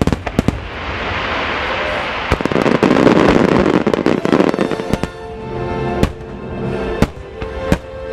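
Fireworks going off: a few sharp bangs at the start, a dense loud rush of crackling noise through the middle, then single bangs about a second apart near the end. Music plays underneath.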